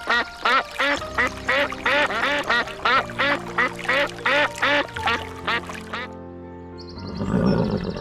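A quick series of short animal calls, about three a second, each rising and falling in pitch, over background music. The calls stop about six seconds in, and a short noisy burst follows near the end.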